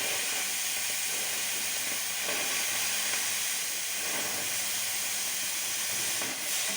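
Manual oxy-fuel gas cutting torch hissing steadily as its flame and cutting-oxygen jet cut a bevel in steel.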